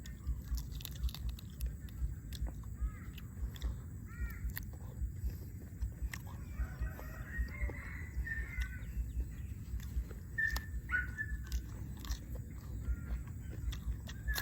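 Chickens clucking in short calls, a cluster in the middle and the loudest a little past two-thirds of the way through, with scattered clicks of eating underneath.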